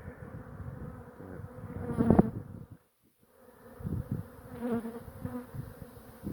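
Honeybees from a disturbed colony being cut out of its nest, buzzing close around the microphone. About two seconds in there is a louder surge of buzzing. The sound then drops out for about half a second before the buzzing resumes with bees passing close again.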